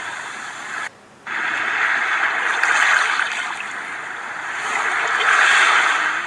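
Sea-wave ambience: a rushing wash that swells and ebbs every few seconds, with a brief dropout about a second in.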